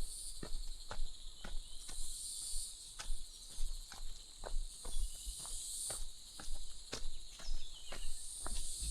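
Footsteps at a steady walking pace, about two steps a second, over a continuous high insect chorus of crickets or cicadas that swells and fades every couple of seconds.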